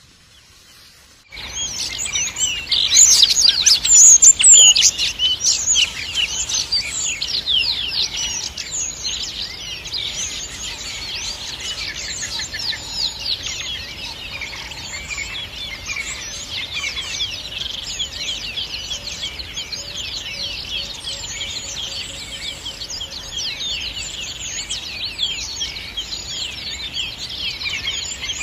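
A dense chorus of many small birds chirping at once, overlapping quick high chirps. It starts suddenly about a second in and is loudest in the first few seconds, then goes on steadily.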